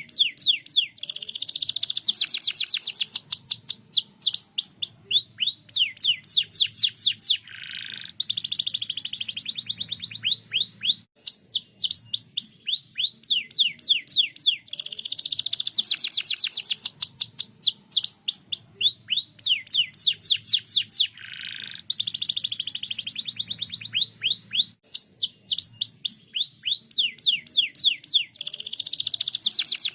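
Canary singing continuously: long, rapid trills of quick downward-sweeping whistled notes, phrase after phrase. The same sequence of phrases comes round about every 14 seconds.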